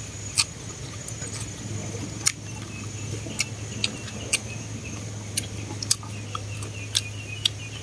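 Close-up eating sounds of a person chewing rice vermicelli with chopsticks: about nine sharp, irregular mouth clicks and smacks over a steady low hum.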